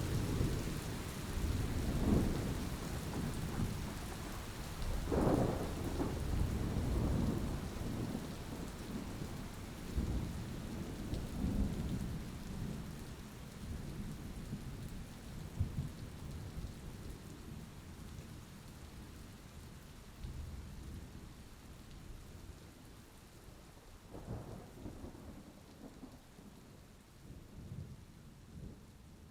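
Thunder rumbling in rolling swells over steady rain, with stronger peals about two, five and eleven seconds in and another near the end; the whole storm grows fainter toward the end.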